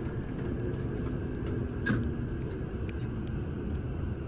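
Steady low running rumble of an E7/W7-series Shinkansen heard from inside the passenger cabin as the train rolls along the platform on arrival at a station, with one faint tick about two seconds in.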